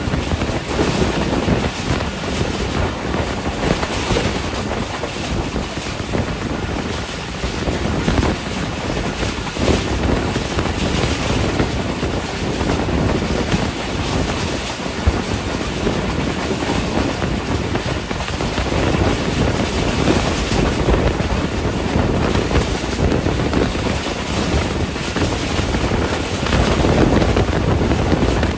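Passenger train running at speed, heard from an open coach window: a steady rumble of wheels on the rails mixed with wind buffeting the microphone.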